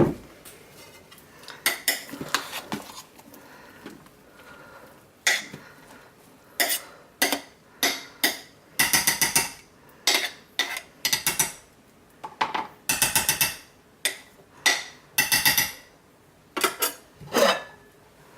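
A spoon stirring and scraping in a slow cooker pot of melting salted-out curd soap, with irregular runs of rapid clinks and scrapes against the pot.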